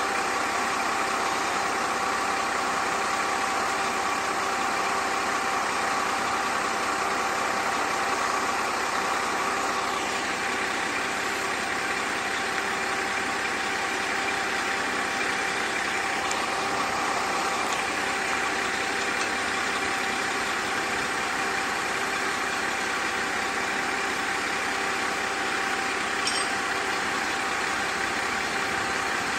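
Diesel engine of the Kanto Railway KiHa 532 railcar idling steadily.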